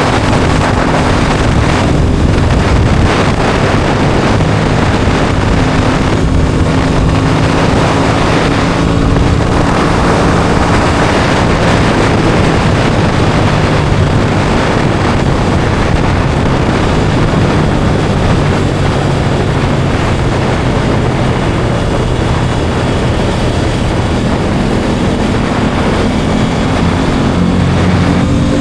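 Aprilia Tuono 660 Factory's parallel-twin engine running under way, its note shifting in steps several times, over a steady rush of wind on the microphone.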